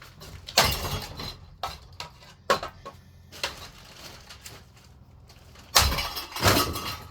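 Crashing and clattering of a ceiling fan being smashed, its blades and housing banging about: a loud crash about half a second in, a few lighter knocks, then two more heavy crashes near the end.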